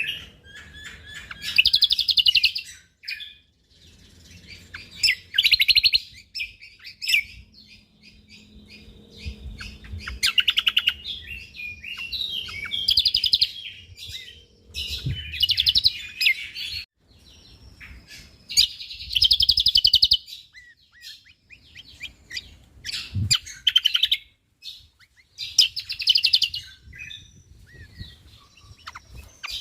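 Cucak kombo (kecial kombo) songbird singing in bursts of rapid, dense chattering trills, each lasting a second or two and repeating every few seconds.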